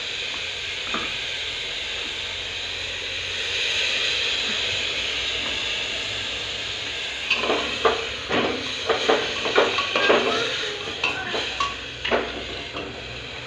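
Spice masala with vegetables sizzling as it fries in an open pressure cooker. About halfway through, a long metal spoon stirs it, knocking and scraping against the sides of the pot in a quick run for several seconds.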